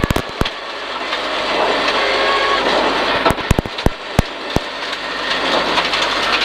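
Peugeot 306 rally car at speed, heard from inside the cabin: engine and road noise building steadily. There are sharp cracks right at the start and another cluster about three to four and a half seconds in.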